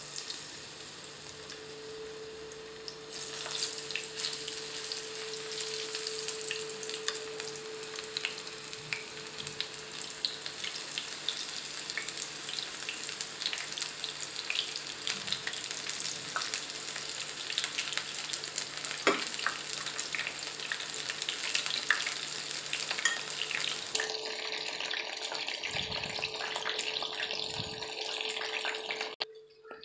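Batter-coated mushroom pieces deep-frying in hot oil: a steady crackling sizzle full of sharp pops, getting louder about three seconds in and stopping shortly before the end.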